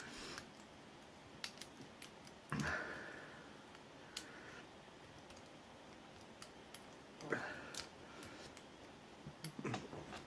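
Faint scattered clicks and scrapes of a lock pick and tension tool working inside an ABUS 83AL/45 padlock cylinder, with two louder, longer scraping sounds about two and a half and seven seconds in.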